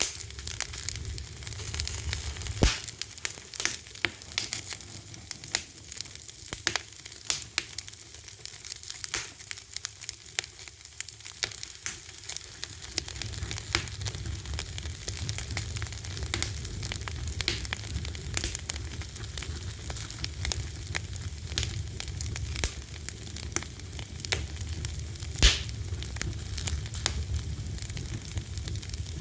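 Wood fire burning with a steady hiss and frequent sharp crackles and pops, one louder pop near the end; a low rumble of the flames grows stronger about halfway through.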